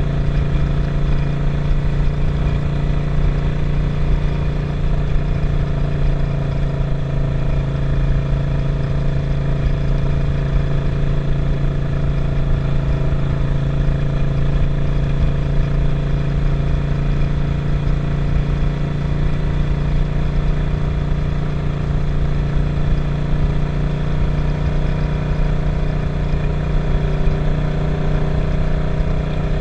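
Suzuki SV650's 90-degree V-twin engine running at a steady pace while riding. Its note holds nearly constant, with a slight change near the end, over a constant low rush of wind and road noise.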